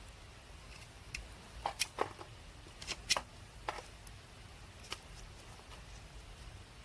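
Campfire wood crackling: a scattering of sharp pops and snaps, most of them between about one and four seconds in.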